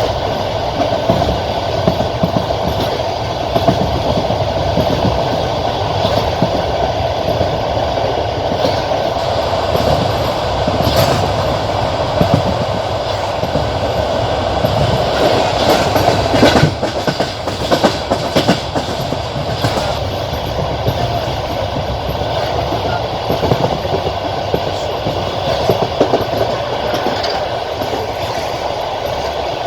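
Railway carriage wheels clattering over rail joints from inside a moving passenger train, over a steady rolling rumble. A denser run of sharp clacks comes between about ten and twenty seconds in.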